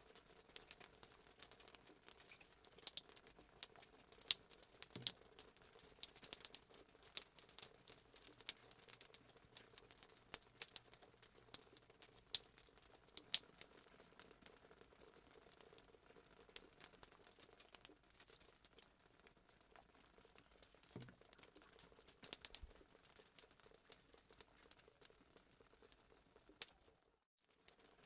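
Fireplace crackling sound effect: a dense, irregular run of small pops and crackles over a faint steady hum. It cuts out briefly near the end.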